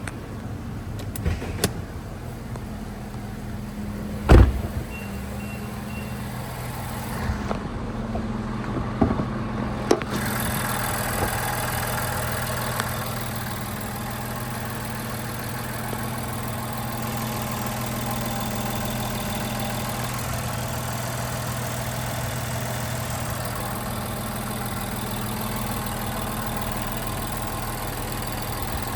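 Clicks and a loud door-like thump, then three short chime beeps. From about ten seconds in, the 2019 Infiniti Q60's 3.0-litre twin-turbo V6 idles steadily.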